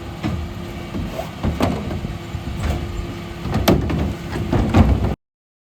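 Dennis Elite 6 bin lorry running with a steady hum, with a series of sharp clunks and knocks. The sound cuts off abruptly about five seconds in.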